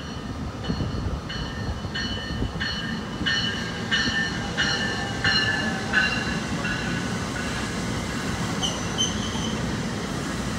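A train passing through the station without stopping, its wheels rumbling steadily on the rails. A high ringing repeats about one and a half times a second, growing louder and then fading over the first seven seconds. Short high-pitched squeals come near the end.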